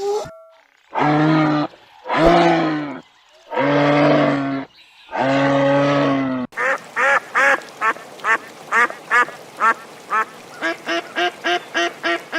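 Four long, drawn-out calls, then a quick run of short, repeated duck quacks that come faster toward the end.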